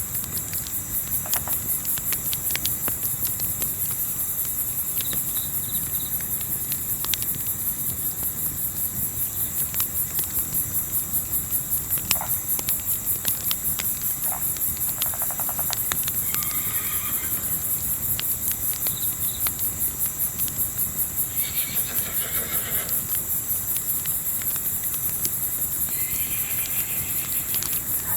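Night crickets chirping in a continuous fast pulsing trill, with scattered sharp crackles from a wood campfire. A few short, higher calls, likely distant wildlife, come in over the second half.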